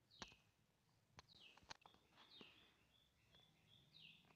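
Near silence with a bird faintly chirping, short falling notes repeated every second or so, and a few sharp clicks in the first two seconds.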